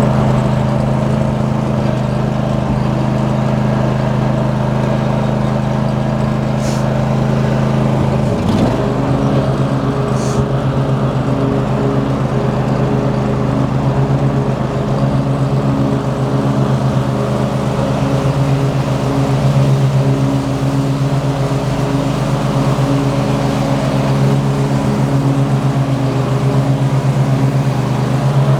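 Lawn mower engine running steadily. About eight seconds in its pitch dips briefly and then comes back up.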